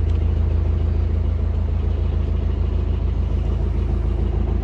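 Narrowboat diesel engine running steadily at cruising speed, a constant low throb.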